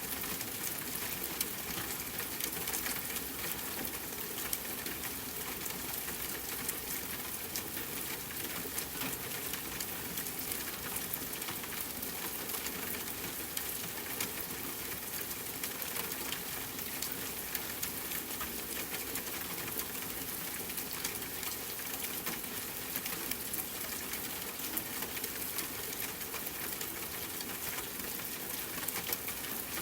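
Steady rain falling on a tent, with a dense scatter of small sharp ticks and campfire crackling mixed in.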